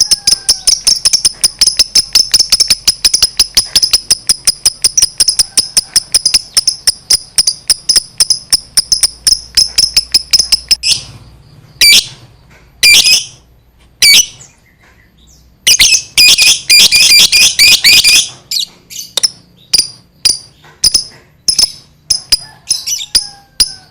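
Lovebird's long 'ngekek' chatter: a fast, even run of sharp, high-pitched notes for about eleven seconds. It breaks off into a few single squawks, then comes a second dense burst, which thins out into spaced notes near the end.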